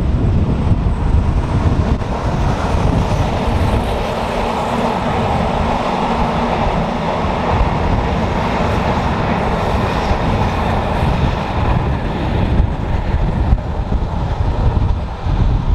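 Passenger train of coaches hauled by a Škoda electric locomotive of ČD class 362/363 rolling past, with a steady rumble of wheels on rail that dies away after the last coach passes, about three-quarters through. Wind buffets the microphone throughout with a low rumble.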